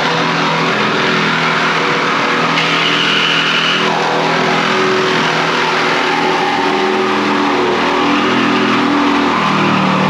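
Reciprocating saw (Sawzall) cutting through a car's roof sheet metal and pillars, running steadily with its motor pitch shifting as the trigger eases and presses. There is a brief high screech a few seconds in.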